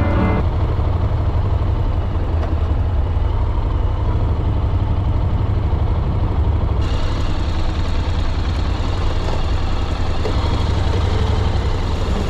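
Riding noise from a motorcycle on the move: a steady low rumble of engine and wind on the camera's microphone. About seven seconds in, the hiss grows brighter and fuller.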